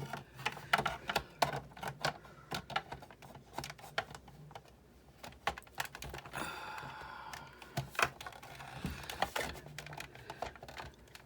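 Irregular small clicks and taps of parts of a Sizzix Big Shot die-cutting machine being handled and fitted back together, with a brief squeak about six seconds in.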